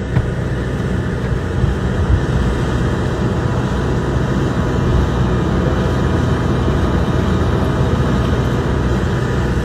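Steady vehicle engine noise with a low hum, unchanging throughout and cut off abruptly near the end.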